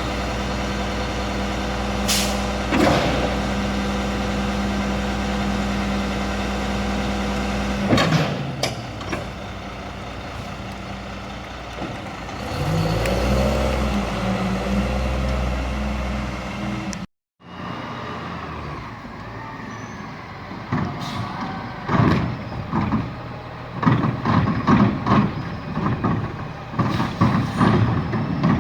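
Garbage truck engine running steadily, with a few sharp bangs and an air-brake hiss. After a cut comes a quick run of clattering bangs, typical of cans and trash being dumped into the hopper.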